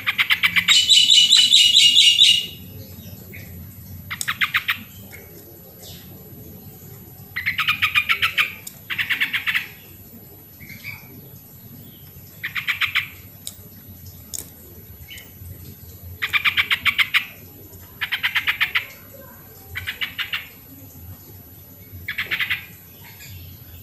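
Sooty-headed bulbul (trucukan) calling: a loud opening phrase of clear whistled notes, then a series of short, rapid chattering phrases, roughly one every two seconds.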